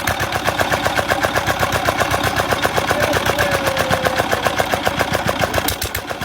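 Diesel engine running steadily just after starting, with a rapid, even knocking beat.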